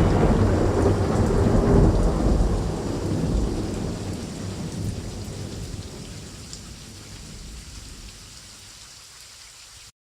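A dense, low rumbling noise that fades away steadily and cuts off abruptly near the end.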